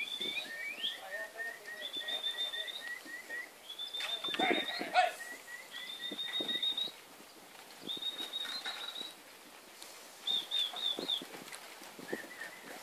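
Birds calling in repeated runs of quick, short high notes, a new run every second or two. About four and a half seconds in, a louder, lower sound breaks in briefly.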